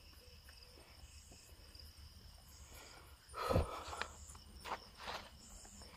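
Crickets chirping in a steady, repeating high pulse, with footsteps on a road. About halfway through comes one loud thump with a falling low tone, followed by a few sharp steps.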